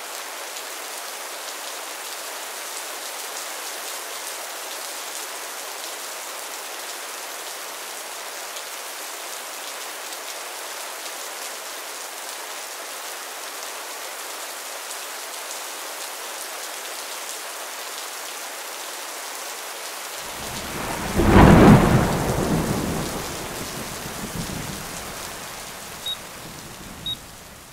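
Steady rain, with a single loud thunderclap about three quarters of the way through that rumbles away over a few seconds. Near the end the countdown timer's alarm starts: short high beeps about a second apart.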